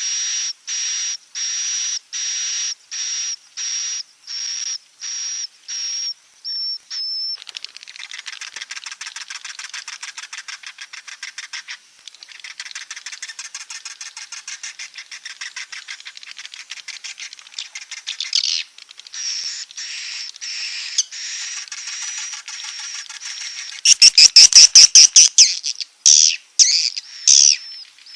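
Swiftlet calls of the 'inap' roosting kind used to lure swiftlets into nesting houses. Short, high chirps come about twice a second, each carrying a thin whistle-like tone, then give way to a fast stream of clicking twitters, with louder, harsher chirps near the end.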